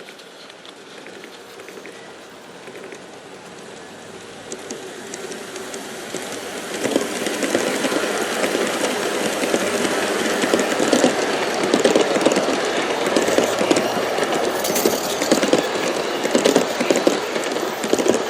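G scale model passenger train, pulled by four F3 diesel units, rolling on its track: growing louder over the first seven seconds or so as it nears, then a dense, fast clatter of wheels clicking over the rails as the cars pass close by.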